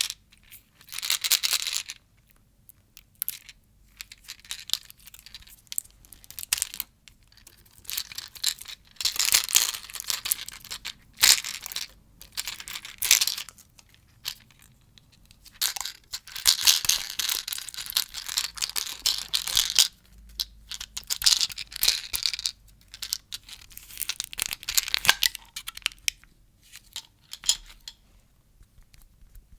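Plastic lollipop wrappers crinkling and tearing in repeated bursts of one to a few seconds, with short pauses between them and a few sharp clicks.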